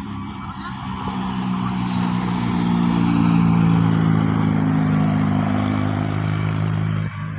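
Truck engine labouring under load on a steep climb, growing louder over the first few seconds, holding steady, then dropping off abruptly near the end.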